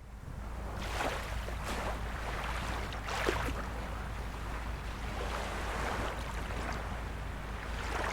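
Small waves of a calm sea lapping and splashing on the shore, a steady wash with a soft splash every second or two, over a constant low rumble.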